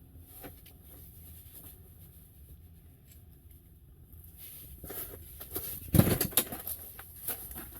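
Knocks and rustles of a small hooked fish being landed through an ice-fishing hole. It is quiet for the first few seconds, then comes a cluster of sharp knocks and rustling, the loudest about six seconds in.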